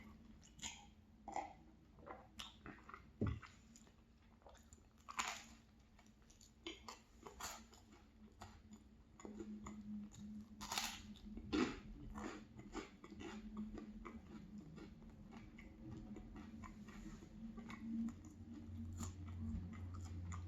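Close-up chewing of bread or toast, with irregular crisp crunches and wet mouth clicks, a few louder bites among them.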